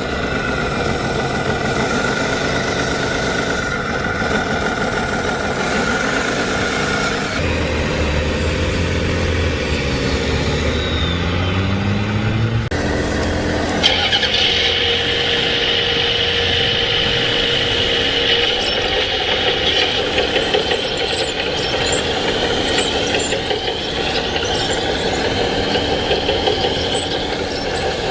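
Remote-controlled toy construction vehicles running: small motors and gearboxes whining steadily and shifting pitch, with sudden changes about seven and fourteen seconds in.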